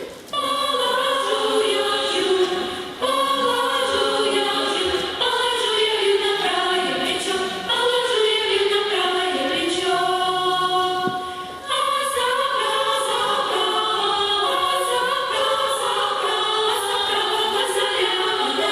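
Choir singing in sustained phrases, with short breaks between phrases about three seconds in and again near twelve seconds.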